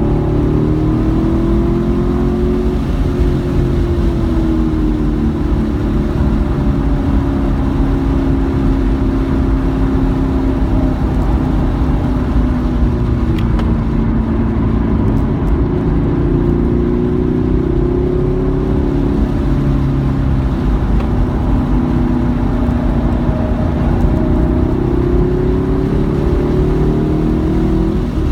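Car engine running hard at track speed, its pitch slowly rising and falling as the revs build and ease, over a heavy low rumble of road and wind noise.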